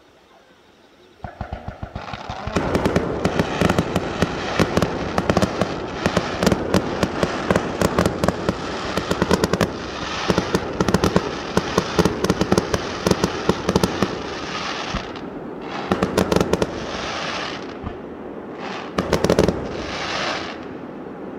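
Aerial fireworks in a rapid barrage of bangs and crackling. They start about a second in and keep up in a dense run, then thin out into a few separate bursts near the end.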